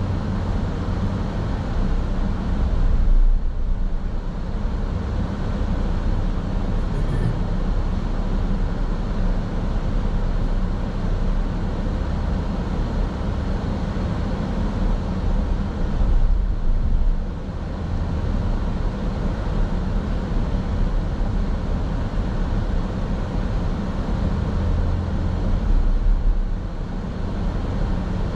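Steady road and engine noise of a car driving, heard from inside the car, mostly deep rumble, swelling briefly a few times.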